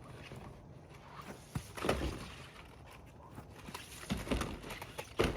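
Lightweight plastic roofing panels being handled and laid in place: a few dull knocks with scraping, about two seconds in, around four seconds in and again near the end.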